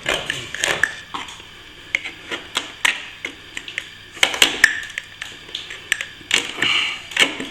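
A metal plastering tool clicking, tapping and scraping against plaster in irregular strokes, with a couple of longer scrapes in the second half, as a cracked joint is worked at.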